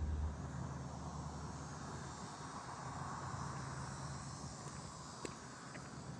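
Steady outdoor ambience: a continuous hiss with a faint insect chirr high up and a low rumble, with one sharp click about five seconds in.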